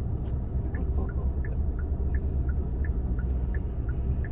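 Car turn-signal indicator clicking in a steady alternating tick-tock, about three clicks a second, over the low rumble of the car's cabin as it drives slowly.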